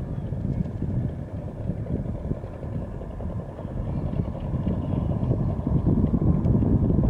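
Wind buffeting the microphone: an irregular low rumble that grows a little louder near the end.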